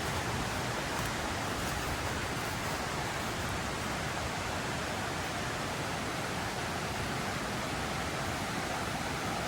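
Mountain river flowing, a steady full rush of water.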